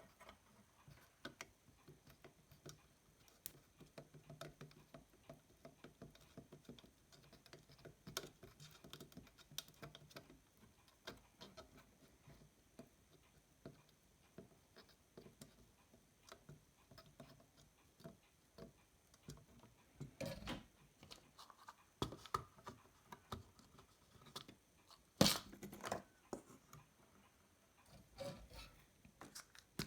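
Faint, scattered small clicks and taps of tweezers and tools working on a circuit board while heated IC pins are gently pulled free, with a couple of louder knocks about 20 and 25 seconds in.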